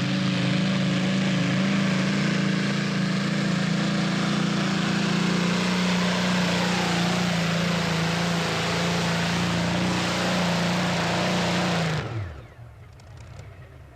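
Competition pulling tractor's engine running hard at steady high revs, then cutting out abruptly near the end, its pitch dropping away as it stops.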